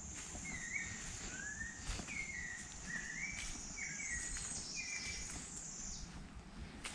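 Birds calling outdoors with a string of short, clear chirping notes, some rising and some falling, repeated every second or so. Underneath runs a steady high-pitched drone that cuts off about six seconds in.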